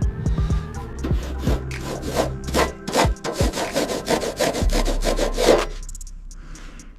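Repeated rubbing and scraping strokes on a hard surface, in quick irregular strokes, from cleaning or sanding work on the car's body. They thin out and grow quieter near the end.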